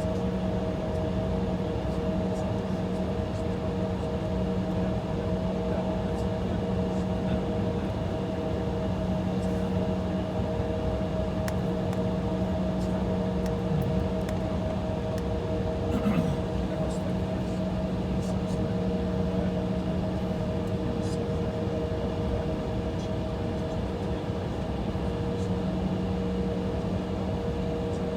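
Steady in-cabin drone of an Embraer E175 jet holding on the taxiway, engines idling and cabin air running, with a few steady humming tones. A brief click about halfway through.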